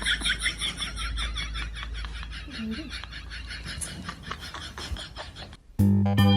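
An animal's rapid, evenly repeated high squeaks, about six a second, slowly fading. Near the end this cuts suddenly to music with a thump.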